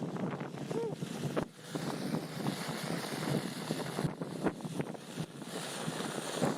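Strong desert wind buffeting the microphone in uneven gusts, with a brief lull about a second and a half in.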